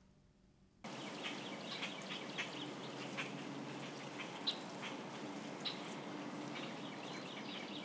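Birds chirping, scattered short high calls over a steady outdoor hiss that starts abruptly about a second in after a near-silent moment.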